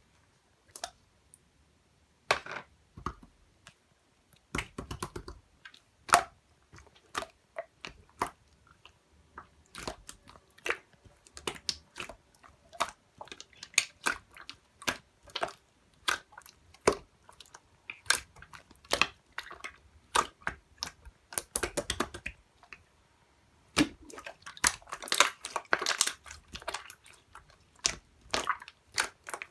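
Clear slime being pressed and kneaded by hand, giving irregular sharp clicks, pops and crackles. They are sparse at first and come thick and fast near the end.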